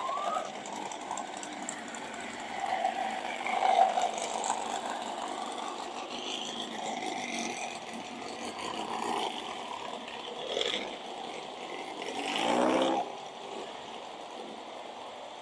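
Air-cooled Volkswagen Beetle flat-four engines running as the cars drive slowly past, with a louder engine rev about twelve and a half seconds in.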